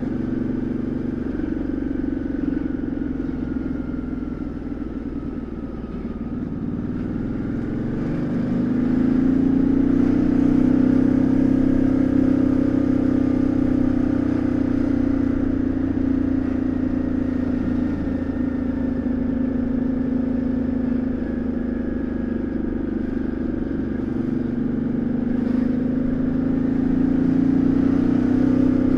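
2013 Ducati Multistrada 1200S's L-twin engine and exhaust heard onboard while riding. The engine note eases off about five seconds in, rises as the bike accelerates around eight seconds in, then holds at a higher pitch, easing slightly and picking up again near the end.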